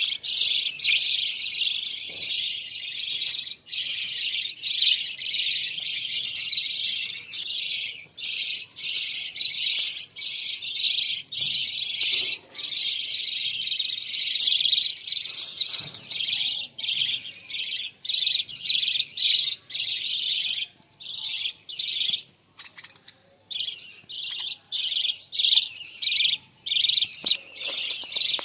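A flock of budgerigars chattering and warbling continuously in dense, rapid high chirps, with only brief pauses.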